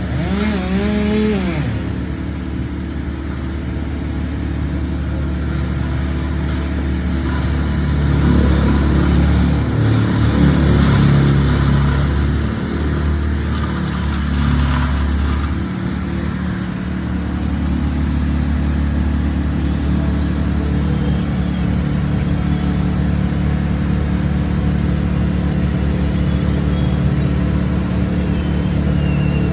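Crane engine running steadily, getting louder with shifting pitch for several seconds about a third of the way through.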